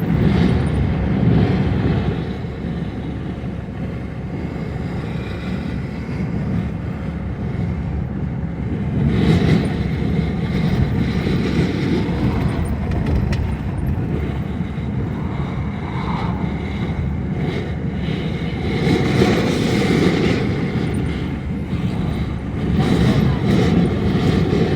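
Strong, gusty storm wind from an approaching tornado buffeting the microphone: a loud, uneven rumbling that swells and eases, louder at moments such as around nine and nineteen seconds in.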